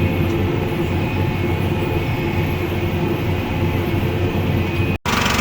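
Case IH Magnum 310 tractor and the LB436 high-density baler it pulls, running steadily while baling. The sound cuts off abruptly near the end.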